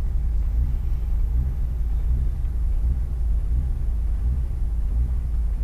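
Mitsubishi Lancer Evo 6 rally car's turbocharged four-cylinder engine running steadily at low revs, heard from inside the cabin as a low, even rumble. The engine has a misfire.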